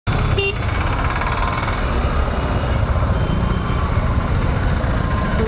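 Road traffic: vehicle engines running steadily, with a short pitched beep about half a second in.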